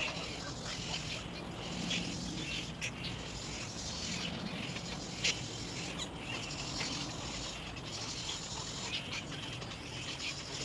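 Little egret chicks calling for their parent: a continuous, rapid, scratchy clicking chatter.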